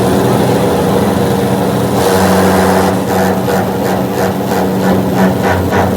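A machine's motor running steadily and loudly. About halfway through, a regular pulsing of about three or four beats a second joins in.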